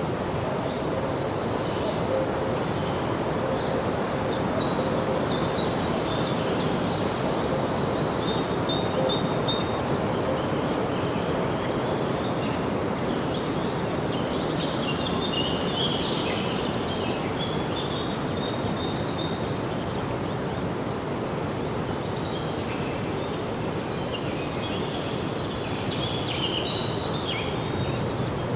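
Birds chirping and singing in scattered bursts over a steady outdoor rush of background noise.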